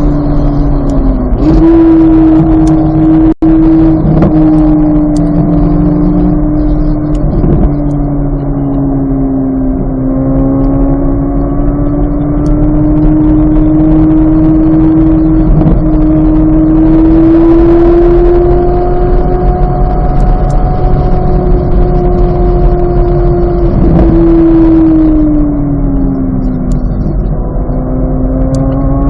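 2023 Chevrolet Corvette Z06's flat-plane-crank V8 running hard at high revs on track. Its pitch rises and falls slowly with speed, jumps quickly about a second and a half in, and dips and recovers near the end.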